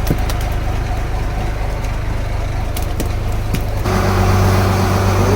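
Fishing boat's engine running with a steady low hum. About four seconds in it becomes louder, with a stronger pitched drone.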